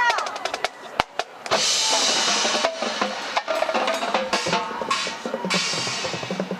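Marching band percussion opening its show: a sharp drum hit about a second in, then loud drums from about a second and a half, with the band's held notes above them.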